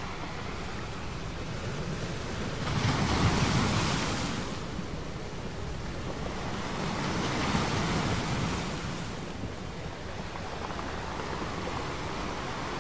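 Ocean waves washing ashore in a steady hiss of surf, with two waves swelling louder about three and eight seconds in.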